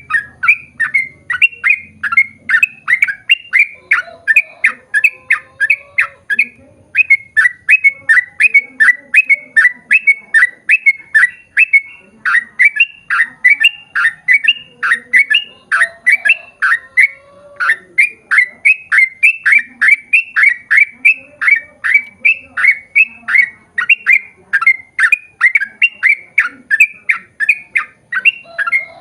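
Yellow-vented bulbul (trucukan) singing a long, rapid run of short chirping notes, about three a second, with a couple of brief pauses.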